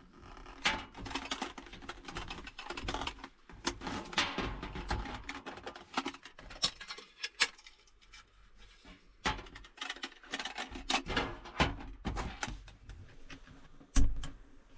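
Things being handled at close range: an irregular run of clicks, light knocks and rustling, with one sharp knock near the end.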